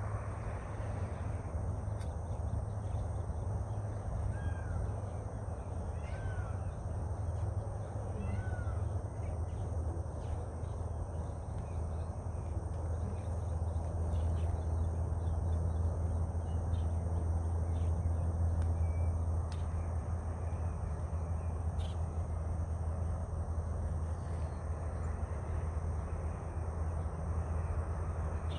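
Open-air ambience under a steady low rumble, with a bird giving three short chirped calls about two seconds apart early on.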